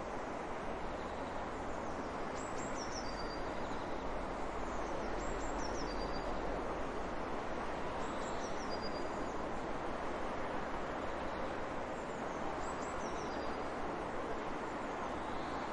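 Steady rushing water, with a small bird repeating a short high song phrase of a few quick falling notes ending on a brief held note, about every three seconds.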